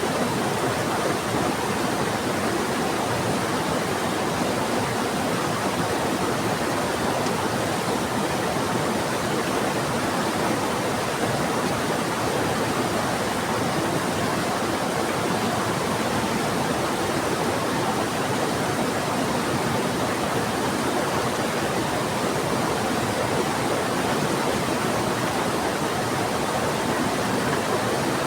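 Steady rushing of a fast-flowing river, with rain falling, an even unbroken wash of water noise.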